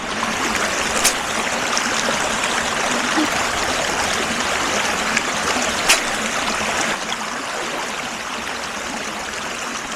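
Creek water running in a steady rushing trickle, with two short sharp clicks, about a second in and again about six seconds in.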